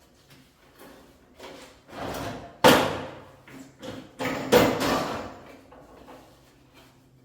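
Handling noises: two sharp knocks a couple of seconds apart, the first about three seconds in, among shorter scrapes and clatters.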